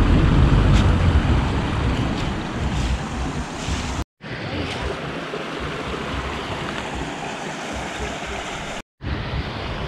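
Stream water rushing, with wind buffeting the microphone, heaviest near the start; the sound drops out briefly twice, about four and nine seconds in.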